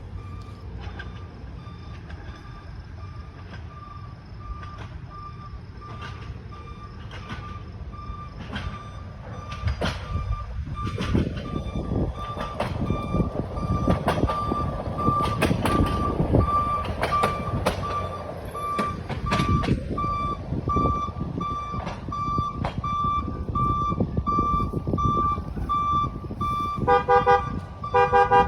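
CSX hi-rail truck running past on the rails, its rumble rising about a third of the way in and staying loud, over a steady, evenly repeated electronic beep. Near the end the truck gives short blasts on its horn.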